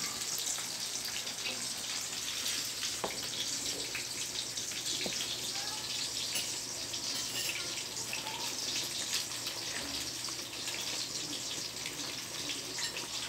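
Steady sizzling and bubbling of food cooking on a gas stove: adobo chicken and pork simmering in its juices in a wok, with eggplant frying in oil in a second pan.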